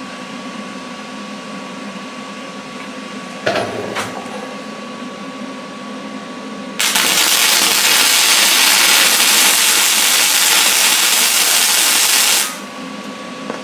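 An electric arc welder crackling steadily for about six seconds as a weld bead is laid, starting suddenly about seven seconds in and cutting off when the arc is broken. Before it, a steady background hum and a couple of clicks.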